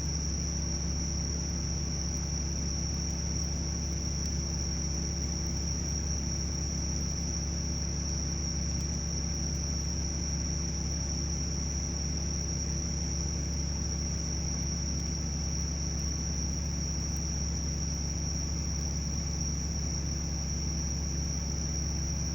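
Bell crickets (suzumushi) singing continuously: a steady high-pitched ringing trill over a constant low hum.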